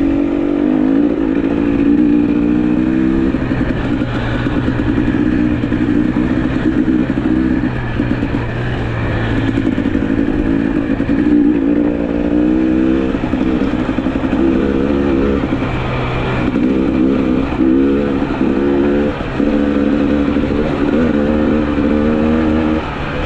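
Two-stroke GasGas EC300 enduro motorcycle engine running while being ridden, its pitch climbing and dropping several times with throttle and gear changes.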